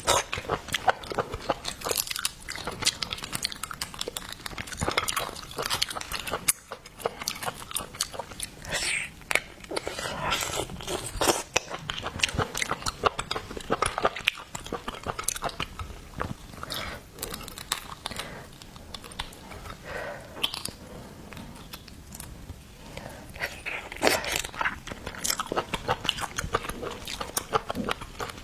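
Close-miked eating of seafood: biting and chewing, with wet mouth smacks and crunches in a dense, irregular stream.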